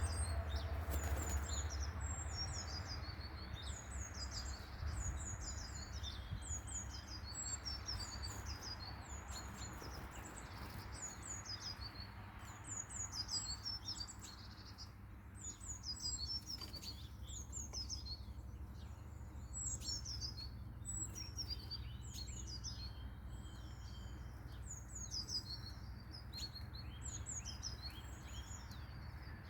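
Birds chirping continuously: many short, high, falling chirps in quick runs, over a steady low rumble.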